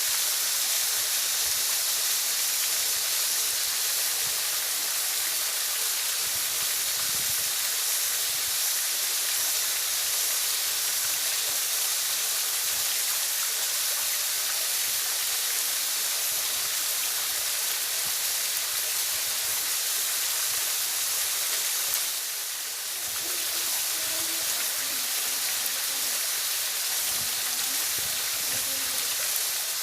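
Waterfall: a steady rush of falling water, mostly a bright hiss, with a brief dip in level a little over two-thirds of the way through.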